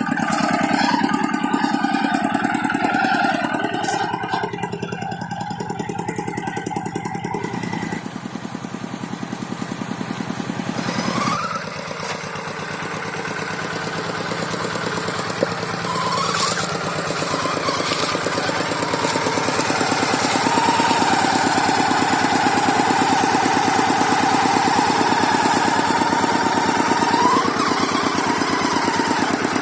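Rice-field tractor engine running steadily under way, its pitch rising briefly several times as it is revved.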